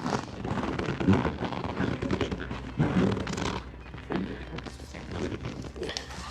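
Irregular crackling and rustling as a vinyl seat cover is handled and stretched hard over the seat foam, with scattered clicks and knocks.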